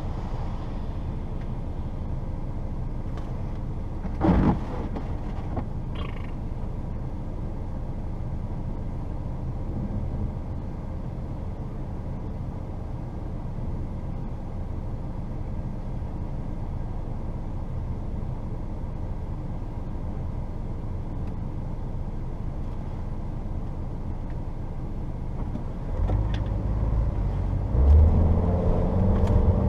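Steady engine and road rumble inside the cabin of a 1994 Saturn SL2 with its 1.9 L twin-cam four, driving on snow, with a single sharp knock about four seconds in. Near the end the engine note rises and gets louder as the car is pushed harder.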